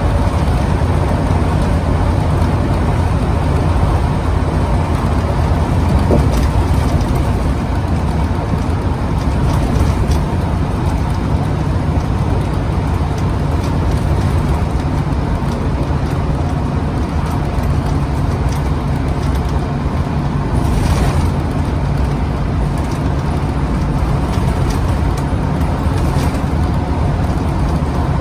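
Inside a Scania CN94UB OmniCity single-deck bus on the move: the diesel engine drones steadily at a settled speed with road noise and small cabin rattles, and a short rushing sound about two-thirds of the way through.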